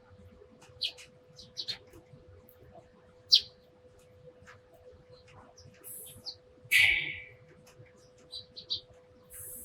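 Sparrows chirping: short, scattered single chirps, the loudest about three seconds in, with a brief louder rustle about seven seconds in. A faint steady hum lies underneath.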